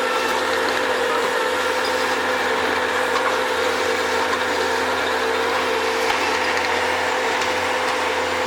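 Bobcat skid-steer loader engine running steadily with a constant hum, a few faint clicks and rattles over it.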